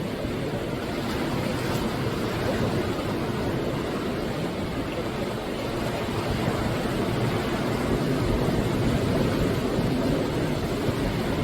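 Sea surf breaking on the shore: a steady, continuous rush of waves that swells a little louder in the second half.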